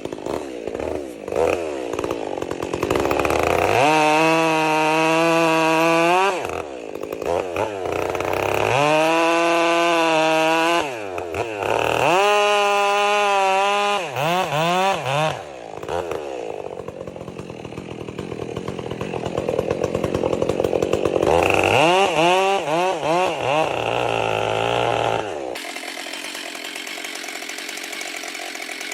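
Two-stroke chainsaw revved repeatedly as it cuts through a thick log, its engine pitch rising to full throttle and holding, then dropping back between cuts, four or five times. About 26 seconds in the sound changes abruptly to a steadier, thinner running.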